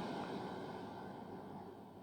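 Great Western Railway Class 802 train going away after passing, its rumble fading steadily.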